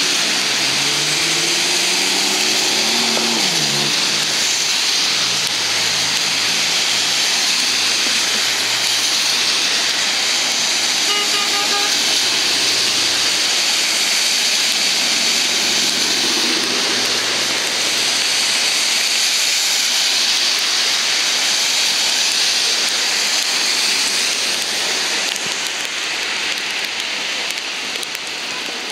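Heavy rain pouring down steadily during a thunderstorm, easing slightly near the end. A vehicle passes in the first few seconds, its engine pitch falling as it goes by.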